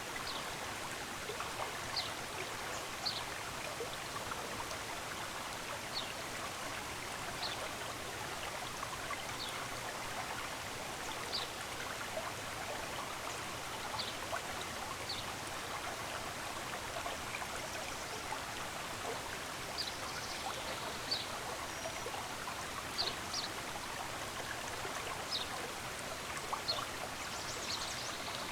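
A stream running steadily, with short high bird chirps every second or two over it, coming more often in the second half.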